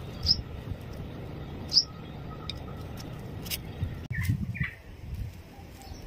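Birds chirping: two short, sharp high chirps in the first two seconds, then two lower chirps shortly after the middle, over a low background rumble.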